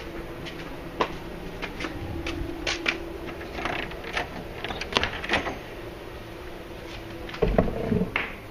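Footsteps and scattered light clicks and knocks of someone walking into a house, over a faint steady hum that stops about seven seconds in, followed by a louder thump near the end.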